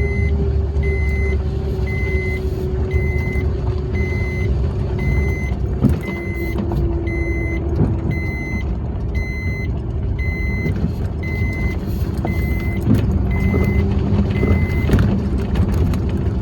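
A vehicle's engine running steadily on an off-road ride, with a heavy low rumble. A short electronic warning beep sounds about once a second and stops near the end.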